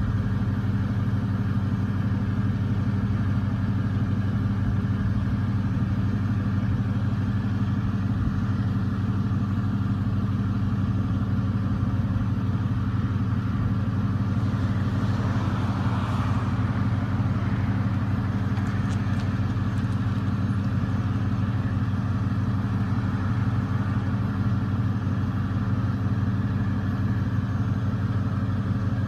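1999 Ford F-150 pickup engine idling steadily at high mileage (282,000 miles).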